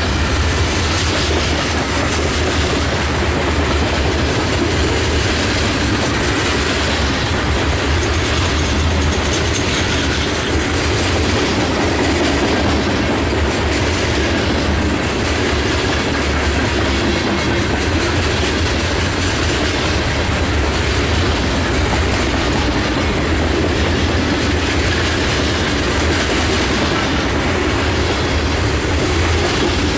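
Freight train cars rolling past at speed, their wheels clacking rhythmically over the rail joints above a steady, loud rumble and rush of steel wheels on rail.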